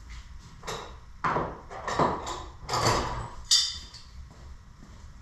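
A hand tool clanking and scraping against metal, about six sharp knocks, some with a brief ring. This is the work of loosening the nut that holds the tractor's ignition key switch.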